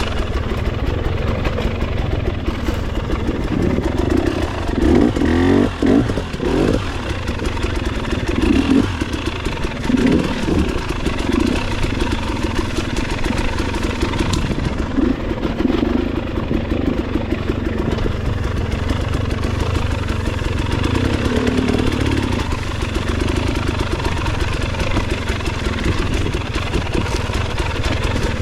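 Motorcycle engine running steadily on the road, with its revs rising and falling briefly a few times.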